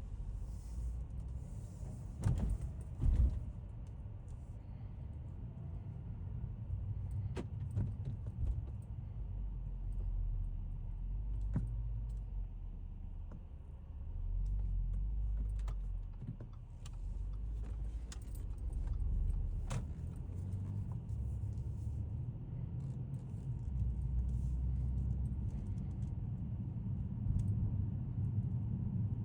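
A 2012 Audi S5's supercharged 3.0 V6 and its road noise during driving. It is a low rumble that swells and eases several times as the car speeds up and slows down. Two thumps come a couple of seconds in, and scattered light clicks and rattles follow.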